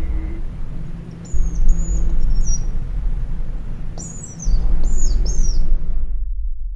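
Small songbirds chirping, short high descending chirps in clusters of two or three, over a loud low rumble; the chirping fades out near the end.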